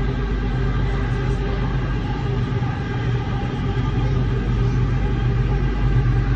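Underground metro train running through a tunnel, heard from inside the carriage: a steady low rumble with a constant motor hum.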